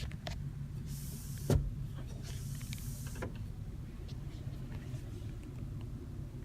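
Power sunroof motor of a Mercedes-Benz GLE 350 running with a steady low hum, with a few sharp clicks, the loudest about a second and a half in.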